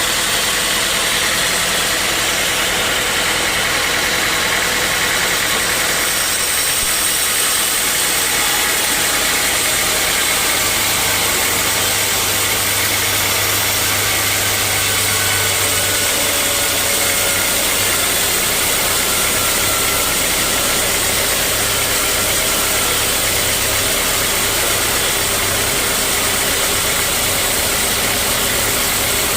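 Sawmill machinery running steadily with a loud, even mechanical noise and hum. A low hum grows stronger for several seconds midway.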